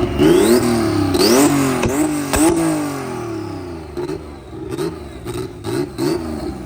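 Car engine revved hard several times in quick succession, its pitch climbing and dropping with each blip. It then settles to a quieter, uneven rumble broken by a few sharp cracks.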